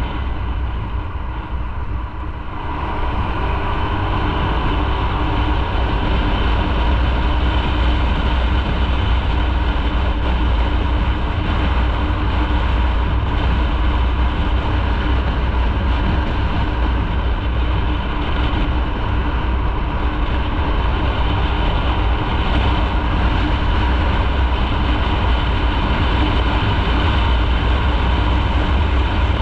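Motorcycle engine running under way with wind and road noise, a strong low rumble that builds up about three seconds in and then holds steady.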